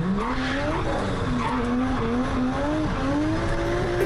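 Car engine running at high revs, heard from inside the cabin: its pitch jumps up at the start, then dips and climbs with the throttle, rising slowly overall, over a steady rushing road and tyre noise.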